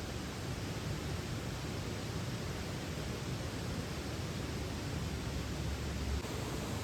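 Mountain stream rushing over rocks: a steady, even hiss of running water, with a low rumble swelling briefly about five seconds in.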